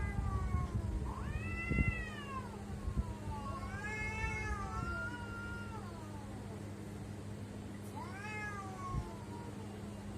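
Domestic cats meowing: about four drawn-out meows, each rising and then falling in pitch, two of them overlapping near the middle, over a steady low hum.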